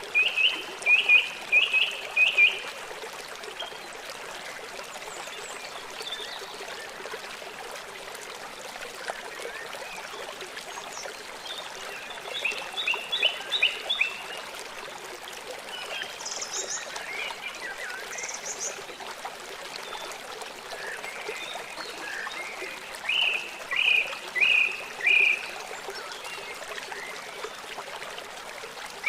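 Small songbirds singing short bursts of four or five quick notes three times, with a few higher notes in between, over the steady trickle of running water.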